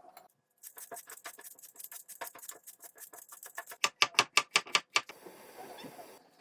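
A quick run of light clicks and taps that turns into a fast series of about eight loud, sharp knocks, roughly seven a second, followed by a short steady hiss near the end.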